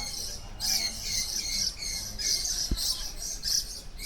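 Aviary birds calling: a high, chattering chirp repeating about three times a second, with fainter calls underneath.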